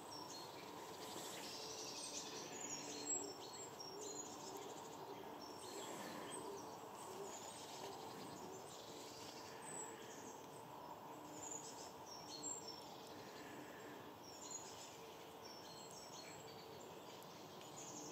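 Faint woodland ambience: scattered short, high calls from small birds throughout, over a low steady hum.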